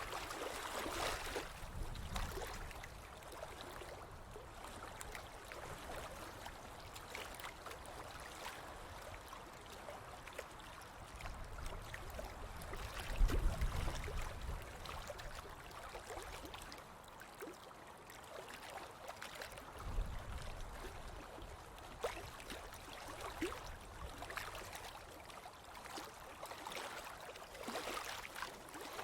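Ocean waves washing onto a beach, a steady rush that swells about a second in and again near the end. A couple of low rumbles come through in the middle, the louder one about halfway.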